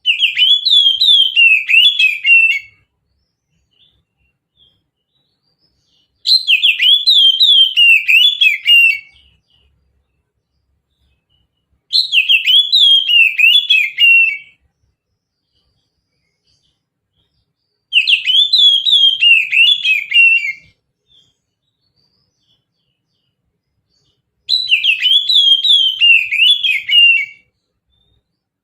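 Oriental magpie-robin (kacer) singing its 'mountain' style song: five loud phrases about six seconds apart, each a quick run of falling whistled notes lasting under three seconds.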